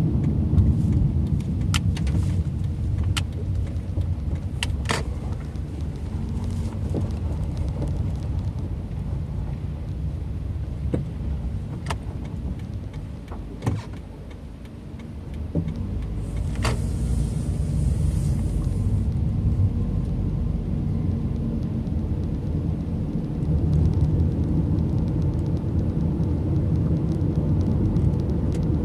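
Car driving, heard from inside the cabin: a steady low road and engine rumble with scattered sharp clicks and knocks. It goes quieter for a couple of seconds about halfway through, then a short high hiss follows.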